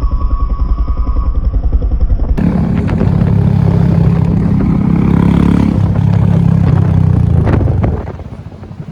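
Kawasaki ZX-10R superbike's inline-four engine running with rapid, even firing pulses. About two seconds in it becomes louder and steadier, then drops away near the end.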